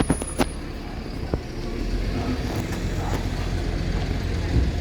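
Bus engine running steadily with a low rumble, with a few sharp clicks in the first second and a half.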